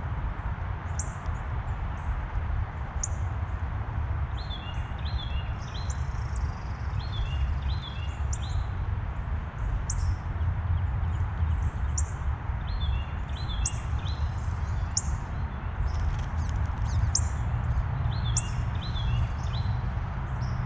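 Small songbirds calling: short, sharp high chips scattered throughout, and a phrase of three repeated falling whistled notes that comes four times. Under them runs a steady low rumble.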